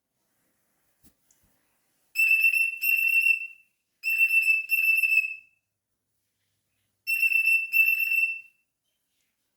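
Cockatiel whistling: three short phrases, each of two steady high notes held for under a second.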